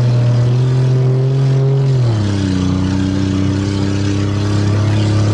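Car engine heard from inside the cabin, running steadily at road speed. Its pitch drops about two seconds in as the revs fall, then holds steady at the lower note.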